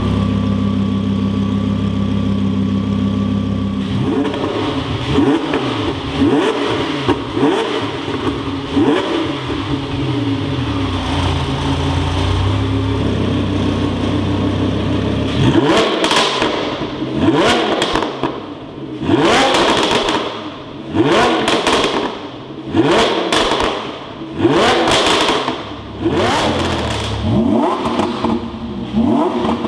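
Lamborghini Huracán LP610-4's 5.2-litre V10 through a Fi Exhaust valvetronic cat-back system, holding a steady note for the first few seconds, then revving up and down. From about halfway in it turns to a string of sharp throttle blips, about one every second and a half, each rising fast and cut off abruptly.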